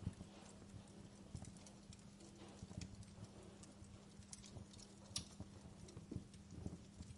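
Wood fire crackling quietly, with irregular snapping pops, the sharpest about five seconds in, and a faint steady low hum underneath.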